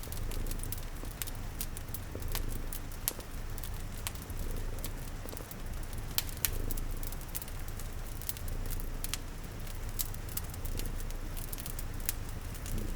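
Wood fire crackling with frequent sharp pops over a steady low cat purr and an even rain hiss.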